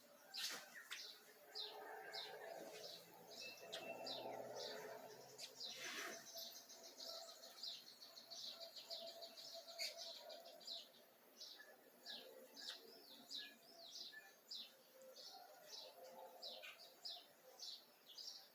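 Many small birds chirping, faint: short high chirps repeat about twice a second, with a longer continuous trill around the middle.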